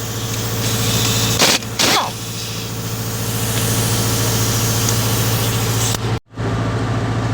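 Engine idling steadily, with two short sharp clicks about one and a half and two seconds in; the sound cuts out for a moment near the end.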